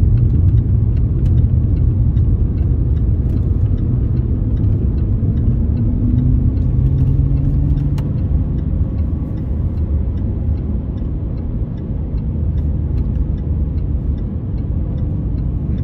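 Cabin sound of a Jaguar XE S's supercharged V6 and road noise at track speed: a deep steady rumble, with the engine note rising as the car accelerates about five to seven seconds in, then holding. A faint regular ticking runs underneath.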